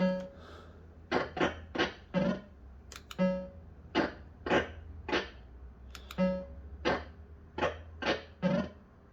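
Bell-Fruit Wild Cats fruit machine (System 85) sounding a run of short electronic notes, with a steady low mains hum under it.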